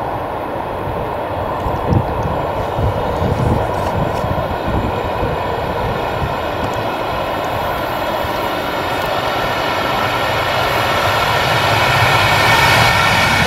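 Class 185 electric locomotive hauling a freight train of hopper wagons, approaching around a curve: a rumble that grows steadily louder, with a whine of several stacked tones rising up over it in the last few seconds as the locomotive draws close.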